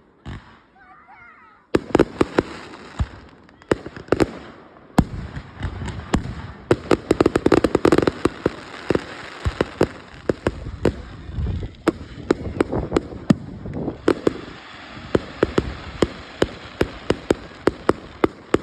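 Fireworks display: a short lull, then aerial shells bursting in rapid succession, dozens of sharp bangs, often several a second, over a continuous crackle.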